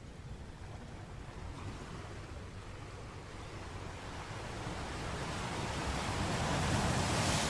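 Sea surf: a wave swells and breaks, the wash of water growing louder toward the end.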